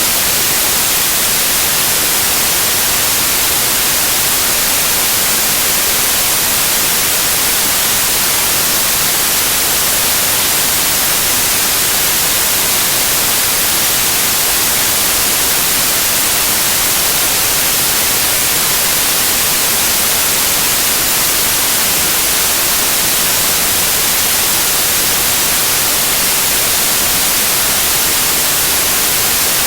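Loud, steady white noise: an even hiss, brightest in the high frequencies, with no change or pattern.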